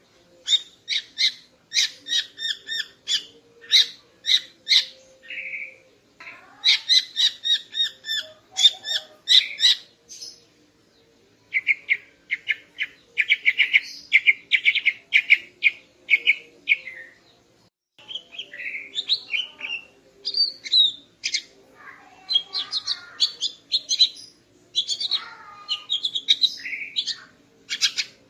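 Female cucak ijo (green leafbird) calling: rapid runs of short, sharp chirps lasting several seconds each, broken by brief pauses.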